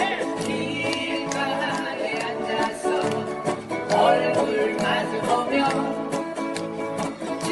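Live singing with strummed acoustic guitars in a steady rhythm: a Korean folk-pop song.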